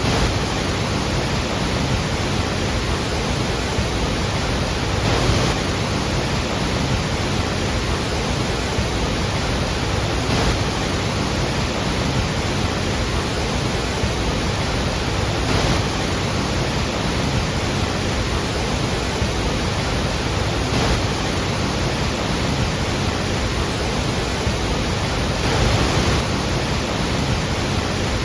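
Iguazú Falls' huge waterfalls thundering in a steady, dense rush of falling water.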